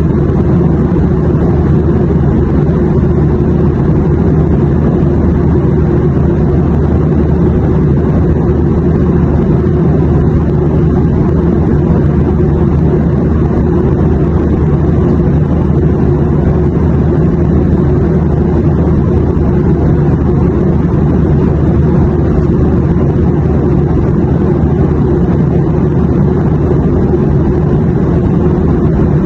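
Steady airplane noise: a low, even drone with a few faint hum tones in it, unchanging in pitch and level.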